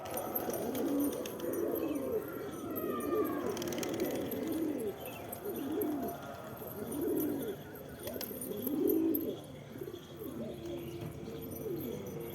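Domestic pigeons cooing: a run of low, rising-and-falling coos from more than one bird, overlapping and repeating without a break.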